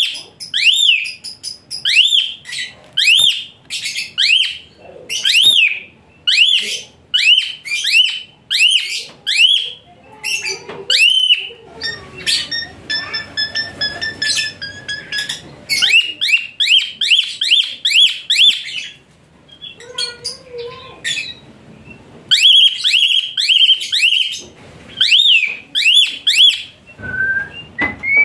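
Asian pied starling (jalak suren) calling: loud, shrill, harsh notes, each rising and falling, repeated rapidly in runs with short pauses. There is a stretch of steadier whistled notes partway through.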